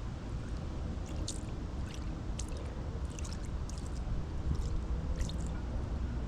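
Water splashing and running over a concrete driveway as oil-stain cleaners are rinsed off, with scattered small splashes over a steady low rumble.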